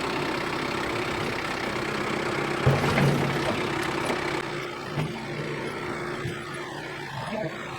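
Kubota M6060 tractor's diesel engine running steadily under load as its loader bucket pries out a large tree stump, with a sharp thump just under three seconds in and a smaller one about five seconds in.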